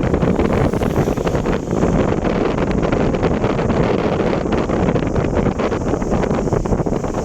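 Wind buffeting the microphone over the steady rumble of a moving vehicle, a loud, gusty noise.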